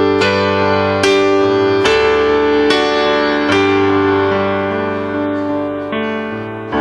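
Keyboard playing sustained chords, a new chord struck a little under once a second, with no voices.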